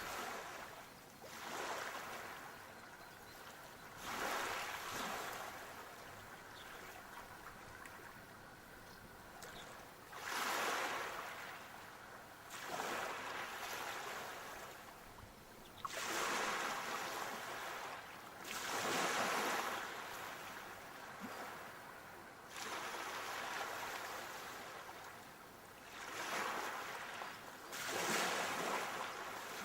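Sea waves breaking and washing in, one surge of surf after another every few seconds, each rising and then dying away.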